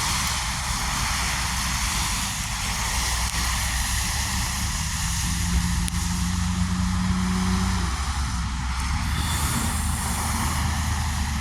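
Steady rumble of vehicle engines and road noise with a broad hiss, and a steady low tone sounding for about three seconds midway.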